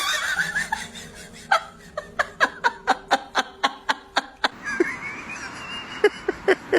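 A person laughing in quick, rhythmic bursts, about five a second. The laughter runs for a few seconds, pauses, and starts again near the end.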